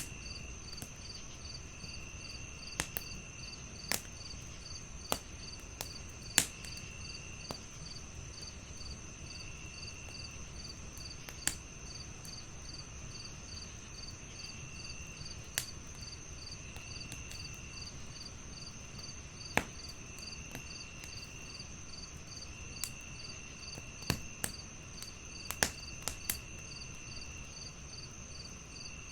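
Crickets chirping steadily in several overlapping patterns: a continuous high trill, a pulsed chirp about three times a second, and shorter trills that come and go. Over them a wood fire crackles with sharp, scattered pops.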